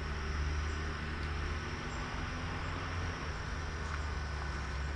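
Steady high-pitched insect drone over an even hiss, with a low rumble underneath.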